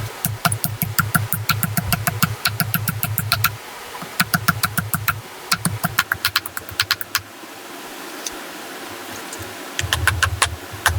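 Rapid rhythmic knocks, about four to five a second, in runs of a few seconds with short pauses between them, and a quieter stretch near the end before the knocking starts up again.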